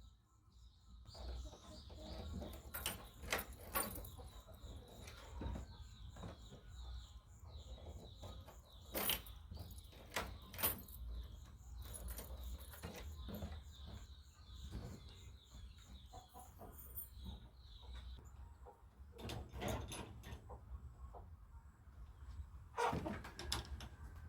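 Birds chirping, with scattered sharp knocks and clatters and a steady low rumble underneath. The chirping fades out about three-quarters of the way through.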